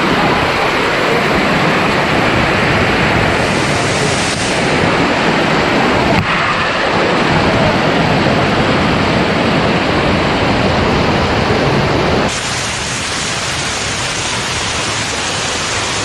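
Steady loud rush of a waterfall's falling water. It changes suddenly twice, about six seconds in and again about twelve seconds in, where it drops a little in level.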